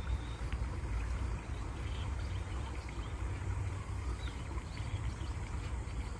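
Flowing water rushing steadily with a deep low rumble, and small birds chirping faintly here and there.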